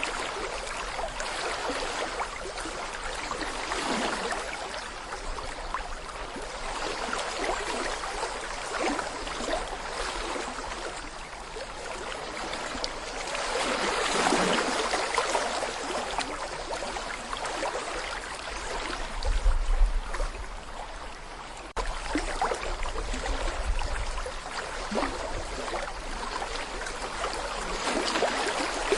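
Small brook running over stones: a steady babbling, gurgling flow of water that swells and eases every few seconds. A brief low rumble comes about two-thirds of the way in.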